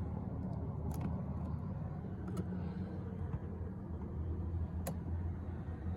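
A car's engine running steadily with a low rumble, with three faint clicks.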